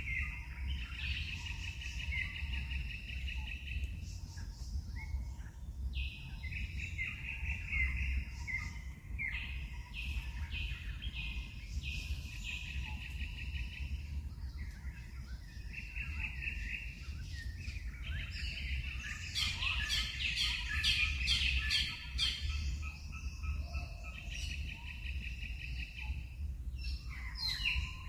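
Birds chirping and trilling in repeated short phrases, busiest a little past the middle, over a steady low rumble.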